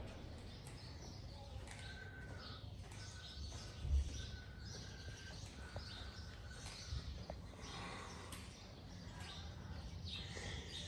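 Faint outdoor ambience with birds chirping in short repeated calls, and a short low thump about four seconds in.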